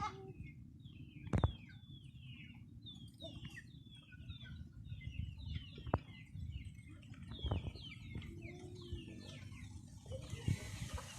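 Chickens peeping over and over in short, high calls that fall in pitch, with a few sharp knocks in between.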